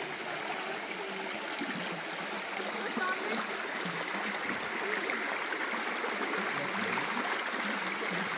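Steady rush of running water from a freshly filled creek flowing over rocks.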